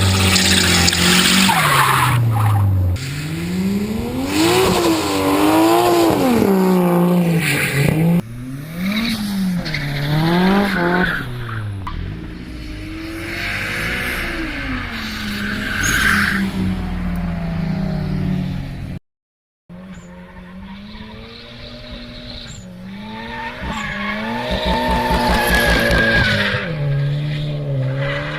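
Car engines revving up and down hard while tyres squeal through drifts, in a run of separate stretches. A short silence breaks it about two-thirds of the way through.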